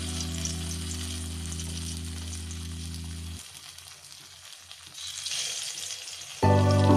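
Spiced white brinjal (eggplant) slices sizzling as they shallow-fry in hot oil in a wok. A steady low background tone under the sizzle stops about halfway, and louder music comes in near the end.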